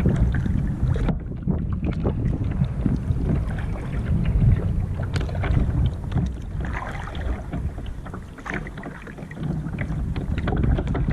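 Wind buffeting the microphone in a heavy low rumble, with water splashing and dripping from a kayak paddle as it is stroked through the water.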